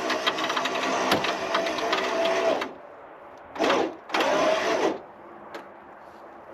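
Electric winch motor whining with a rapid clicking while it pulls a vehicle onto a trailer. It stops about two and a half seconds in, then runs again in two short bursts.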